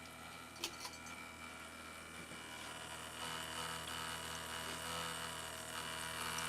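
Small electric waterfall-fountain pump running with a steady buzzing hum that grows louder about three seconds in, with one sharp click just under a second in. After two hours of use it makes a really loud noise and smells of burning, which the owner takes for the pump overheating.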